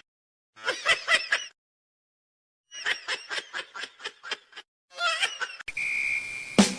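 A person laughing in rapid pulsed bursts, in three bouts with short silences between them.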